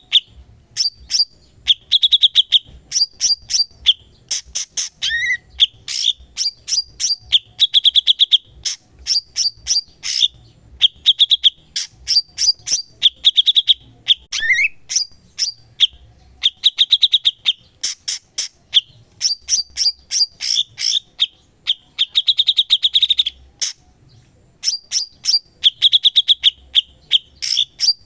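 A cucak cungkok songbird singing nonstop in loud, rapid phrases: quick runs of sharp chips and dense buzzy trills, with occasional short rising whistles.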